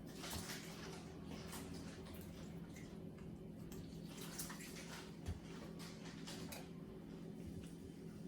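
Faint splashing and sloshing of water as raw chicken is washed by hand in water and vinegar, over a steady low hum, with one soft thump about five seconds in.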